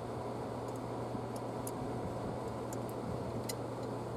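A few faint, sharp clicks of channel-lock pliers and plastic parts as the air intake hose is pried off the throttle body, over a steady low hum.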